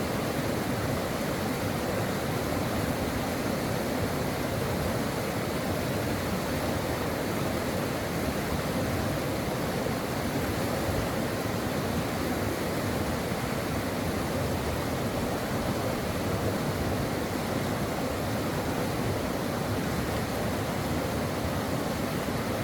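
Mountain stream flowing steadily, a continuous, unchanging rush of water.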